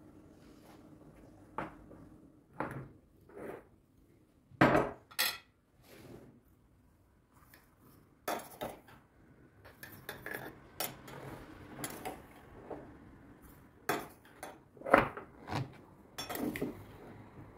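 Irregular knocks and clinks of hard objects being handled and set down on a hard surface, with the two loudest knocks about five seconds in and near the end.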